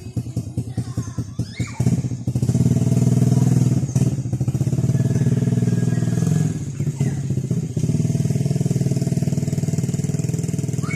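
An engine running, with an even pulsing for about the first two seconds, then running steadily and louder, with brief dips in level about four and seven seconds in.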